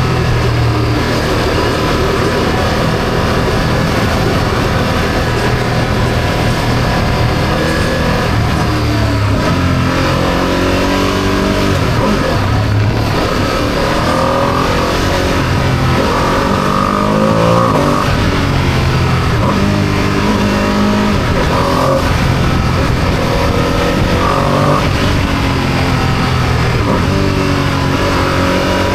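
Ducati motorcycle engine under way, its pitch climbing under acceleration and dropping back many times, as when revving through the gears.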